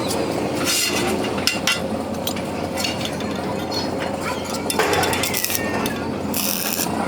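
Irregular metal clinks and knocks over a steady workshop machine noise, as of metal pieces being struck or handled.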